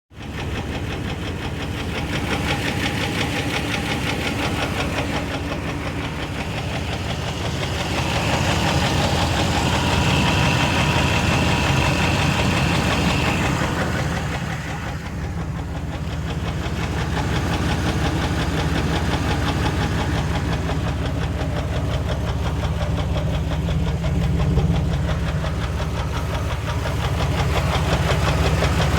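Vehicle engine running with a steady, rhythmic knock, the sound of rod knock from a worn connecting-rod bearing. A faint high whine comes and goes in the middle.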